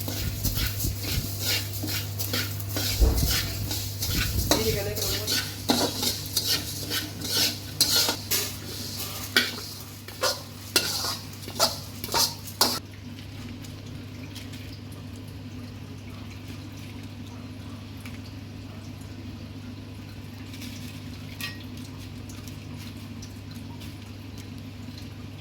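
A utensil stirring and scraping in a metal pan, many quick clicks and scrapes for about twelve seconds. After that only a steady low hum remains.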